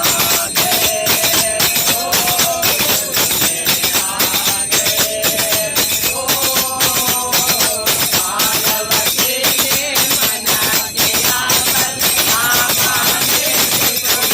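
Voices singing over jingling hand percussion, a tambourine or small cymbals, keeping a fast, steady beat.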